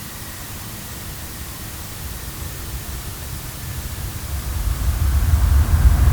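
Airplane sound effect: a steady hiss with a faint whine, then a low rumble growing louder from about four seconds in as the aircraft comes closer or powers up.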